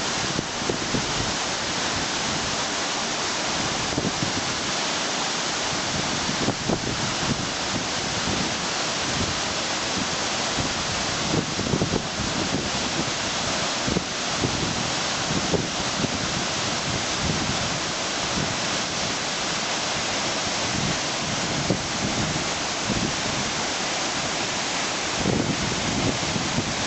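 Waterfall rushing steadily, a dense even roar of falling water, with irregular low buffeting of wind on the microphone.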